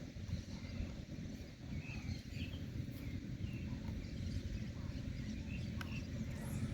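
Wind rumbling on the microphone, with faint scattered bird chirps.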